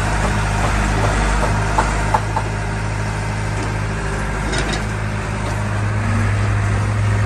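Engine of heavy earthmoving or haulage machinery running steadily with a low drone, with a few short clanks about two seconds in.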